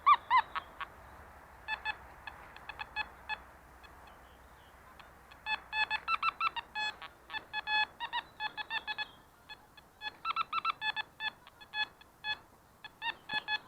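Metal detector beeping as the search coil sweeps over buried metal: scattered short beeps, a pause around the middle, then dense runs of rapid beeps.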